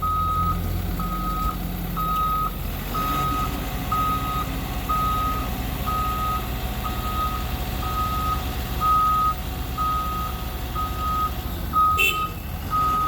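A backup alarm beeping steadily, about once a second, over a diesel engine running. There is a sharp knock near the end.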